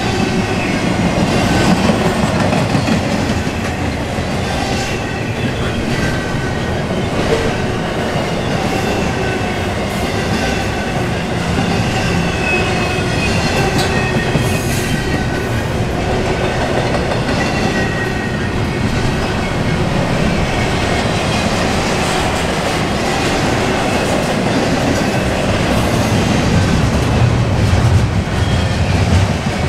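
Intermodal container freight cars rolling past at speed: a steady, loud rumble of steel wheels on rail, with repeated clicks as the wheels cross rail joints and thin, high wheel squeals.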